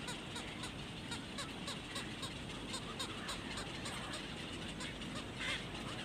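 Birds calling: a busy run of short chirps and calls several times a second, with one louder, harsher call about five and a half seconds in.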